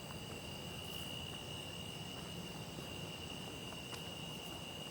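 Crickets trilling steadily at one high pitch, over a faint low background rumble.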